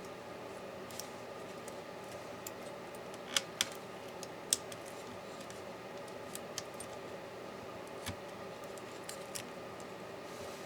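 Scattered light clicks and taps of small tools and laptop parts being handled during disassembly, with three sharper clicks close together a few seconds in, over a steady background hum.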